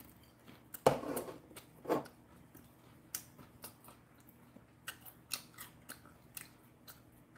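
Chewing fried chicken breast: irregular crisp crunches and clicks, the loudest about a second and two seconds in, then smaller scattered clicks.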